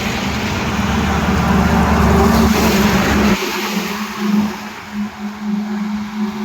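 Highway traffic: a vehicle passes close by with tyre and engine noise that builds to a peak and drops off sharply about three and a half seconds in, over a steady engine hum.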